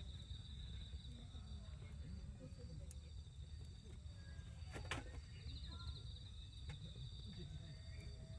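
Outdoor night-time-style ambience: a high, rapidly pulsing insect trill that comes and goes, over faint distant voices and a low rumble, with one sharp crack about five seconds in.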